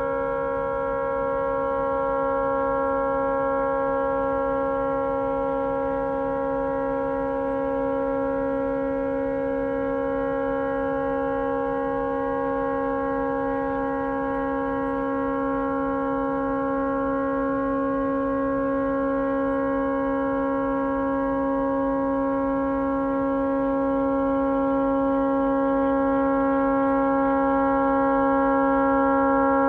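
Tugboat horn stuck on and blaring continuously: one unbroken chord at a steady pitch that does not let up, because the horn has malfunctioned and will not shut off.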